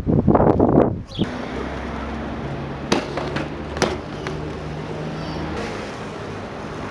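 Wind buffeting the microphone for about a second, then a steady low mechanical hum, like an engine running nearby, with two sharp clicks.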